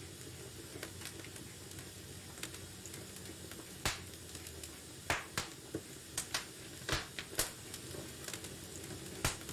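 Wood fire burning in a fireplace: a soft steady hiss with irregular sharp crackles and pops, sparse at first and coming more often in the second half.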